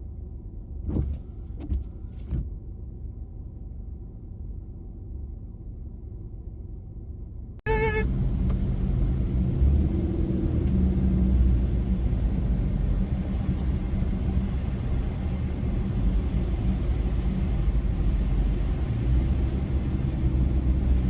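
Road and engine noise of a car driving, a steady low rumble with a few light clicks in the first couple of seconds. About eight seconds in it cuts abruptly to louder, heavier rumble, with a brief tone at the cut.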